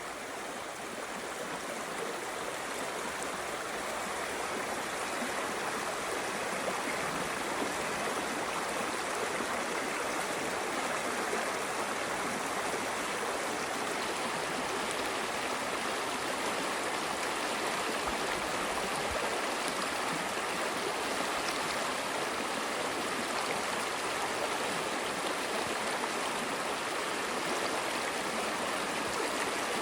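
Stream water flowing in a steady, even rush that grows a little louder over the first few seconds.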